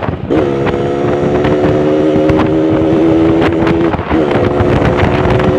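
Yamaha RX-King two-stroke single-cylinder motorcycle engine running under steady throttle while riding, with wind on the microphone; the engine note dips briefly twice, near the start and about four seconds in, as if between gear changes. The rider hears the engine as straining and not running right.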